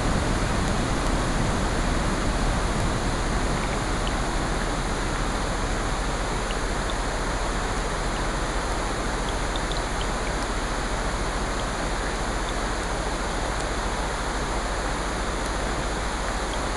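Steady wash of rain mixed with ocean surf, with faint scattered crackles from a fireplace.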